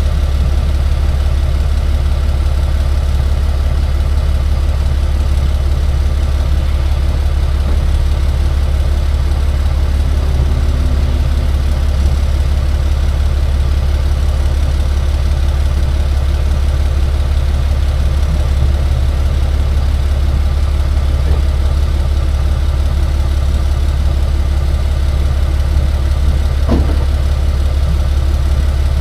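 Tow truck's engine running with a steady low drone while driving.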